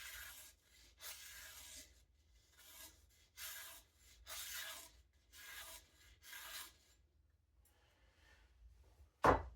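A freshly sharpened kitchen knife slicing thin slivers off the edge of a sheet of paper, a soft papery hiss with each stroke, about once a second, seven times. The sound of an edge sharp enough to shave paper into thin feathers. Two louder, sharper paper or handling sounds come near the end.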